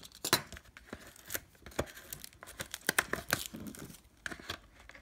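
Packaging of a sealed trading-card box being torn and crinkled open: a run of short, sharp crackles and clicks.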